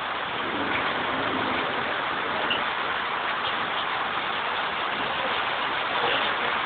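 Heavy rain falling, a steady even hiss of water noise.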